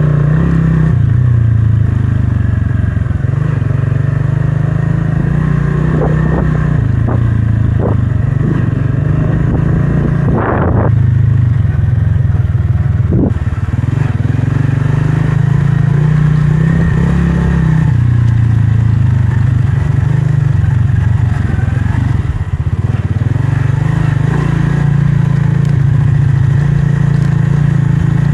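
Motorcycle engine running under way, its note stepping up and down with the throttle, with a few short knocks and rattles around the middle.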